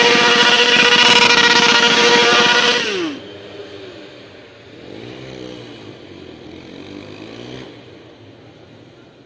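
Motorcycle engine held at high, steady revs, then the revs fall away and the sound drops sharply about three seconds in. After that, a quieter engine revving up and down, cutting off near the end.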